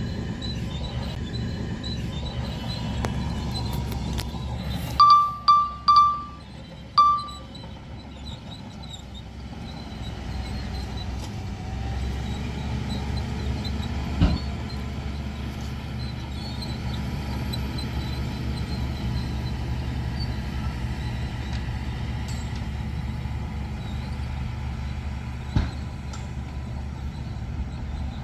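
Heavy earthmoving diesel engines running with a steady low rumble, and a vehicle horn honked four short times about five seconds in.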